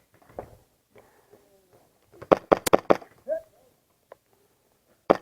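HPA-powered Hi-Capa airsoft pistol firing four quick sharp shots about two seconds in, with another shot right at the end.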